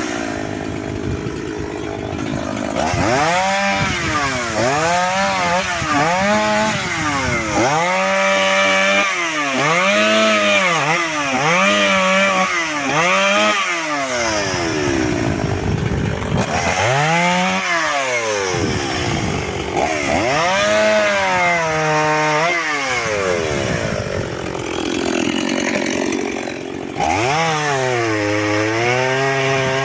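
Chainsaw cutting firewood, its engine pitch rising and falling again and again as it revs and bites, about once a second for several seconds, then in a few slower swells.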